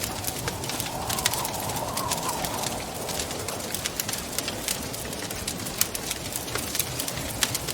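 Wood fire crackling with irregular sharp pops over a steady rush of wind. About a second in, a wavering whistling tone rises and falls for a second or two.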